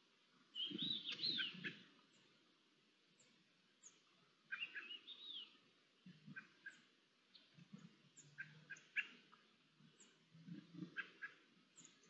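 Small birds calling at dawn: repeated short double chirps and two longer warbling phrases, about a second in and again around four and a half seconds in. Soft, irregular low sounds sit underneath.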